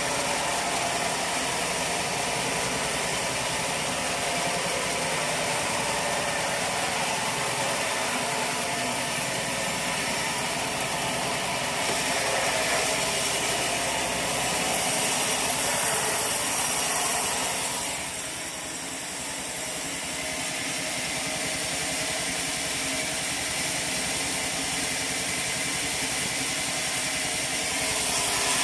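Sawmill machinery running steadily with an engine-like drone, growing louder and hissier for a few seconds past the middle, then dropping back.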